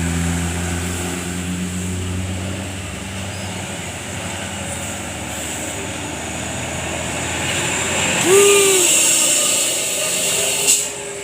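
Road traffic: a heavy vehicle's engine running low and steady as it passes, fading away over the first few seconds, then steady traffic noise. A louder swell of passing traffic comes about eight seconds in with a brief pitched sound, and a sharp knock comes near the end.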